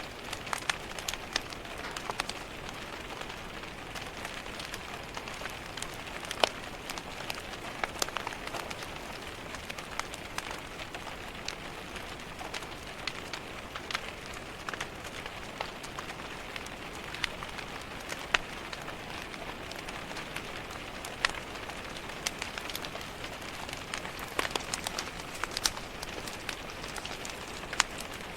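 Steady rain on a window pane, an even hiss, with a fireplace fire crackling through it in scattered sharp pops and snaps.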